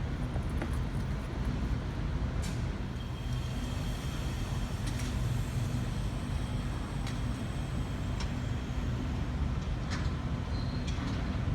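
Steady low rumble of a V-set electric intercity train standing at the platform, with a few faint clicks scattered through it.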